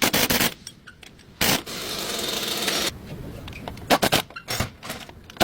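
Hand-tool work on a driveshaft universal joint: sharp metal knocks, a scraping rub lasting about a second and a half, then a few more knocks.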